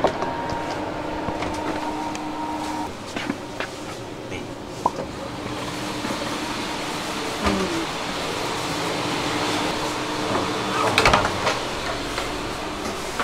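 Running noise inside a moving passenger train carriage: a steady rumble, with a steady hum that stops about three seconds in. Scattered clicks and knocks, and a louder clatter about eleven seconds in.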